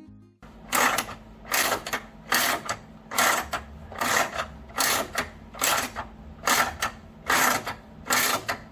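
A wrench working the 3/8 bolt of a homemade bolt-and-washer puller in even, repeated strokes, about one every 0.8 seconds, as it draws a polyurethane bushing into place.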